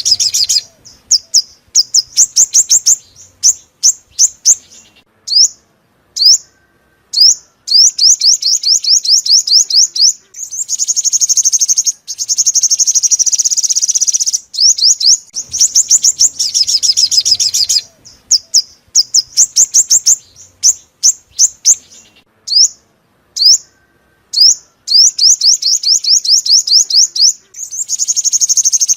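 Sunbird song: rapid runs of thin, high-pitched chips and trills in repeated phrases, broken by short pauses. It is a lure recording for a loudspeaker bird trap, and the bird is the purple-throated, yellow-bellied sunbird sold as the 'five-colour sunbird'.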